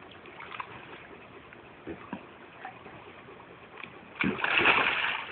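Faint lapping and small splashes of water, then, about four seconds in, a sudden loud splash as a kayak and its paddle roll over in the water.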